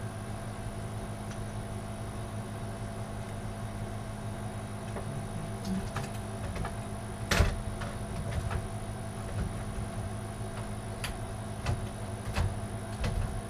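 Scattered clicks and knocks of a hard drive being handled and slid into a metal PC case's drive bay, the loudest about seven seconds in, over a steady electrical hum.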